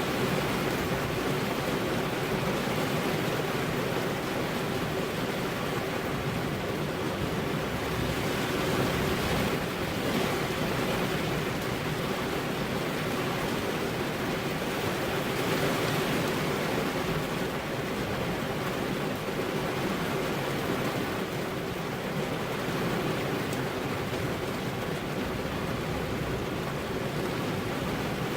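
Steady rain falling on a car's windows, an even hiss with gentle swells in intensity.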